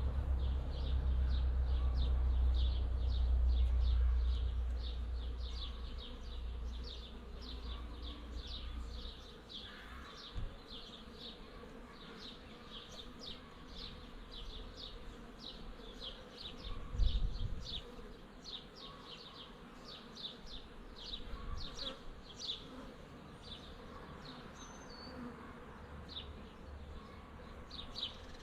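Insects outdoors, with a steady run of short, high chirps repeating two to three times a second. Wind rumbles on the microphone for the first few seconds, and there is a brief low thump about two-thirds of the way through.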